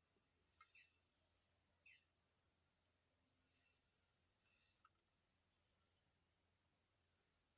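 Steady high-pitched chorus of crickets or similar insects, with a few faint short chirps early on.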